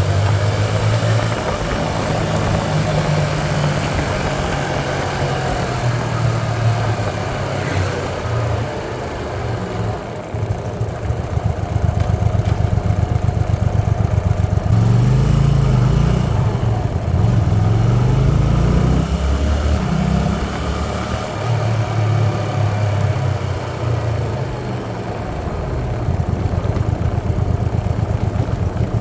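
Hyosung Aquila 125 motorcycle engine running under way, its low note climbing and dropping several times in the middle as the bike speeds up and slows, over a constant rushing noise.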